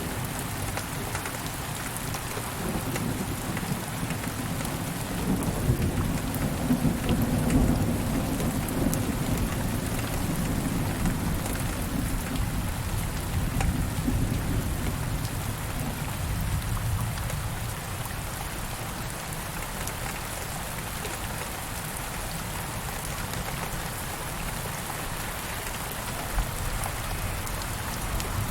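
Steady rain falling, with a low rumble of distant thunder through the first half that dies away after about sixteen seconds.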